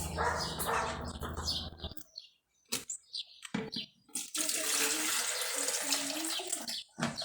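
Water running from a tap into a sink, with a few sharp knocks of items being handled; a steady low hum runs for the first two seconds and then stops.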